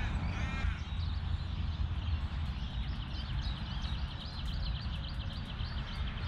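Wild birds calling: a cawing call in the first moment, then a long run of quick, high chattering notes from about two seconds in.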